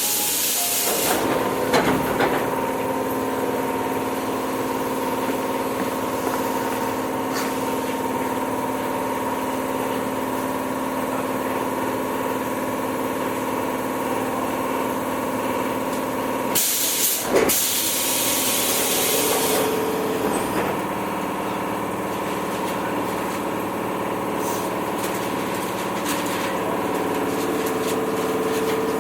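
Tobu 8000 series electric train running between stations, heard from inside the car: a steady hum of several held tones over rumbling wheel and rail noise. A short rush of hissing noise comes right at the start and again about two-thirds of the way through.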